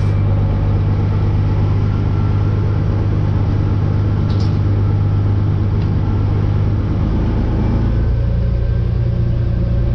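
Loaded tri-axle dump truck's diesel engine running under way, a loud steady low drone heard from inside the cab. Its pitch rises a little about eight seconds in as the revs climb.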